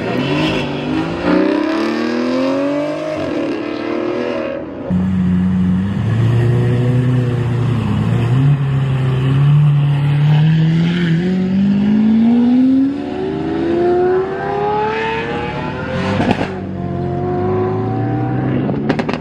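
Supercar V12 engines accelerating hard in a run of short cuts. First an Aston Martin Vanquish revs and pulls away, its pitch rising and dropping back through gear changes. Then a Lamborghini Aventador SVJ's V12 runs low and steady before climbing in one long rising pull of about five seconds, and a further car revs near the end.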